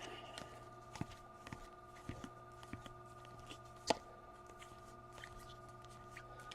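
Faint handling of trading cards and pack wrappers: scattered soft ticks and rustles, with one sharper click about four seconds in.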